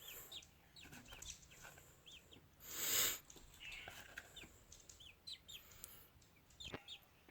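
Nestling American robins chirping, short high peeps scattered throughout as they beg for food, with a brief loud noise about three seconds in.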